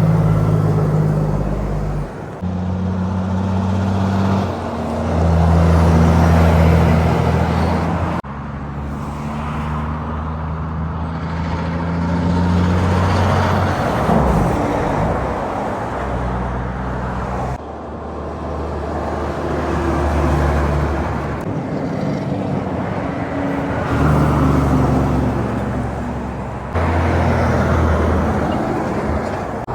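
Heavy trucks and other highway traffic driving past, diesel engines droning low over tyre and road noise. The sound changes abruptly several times as one pass gives way to the next.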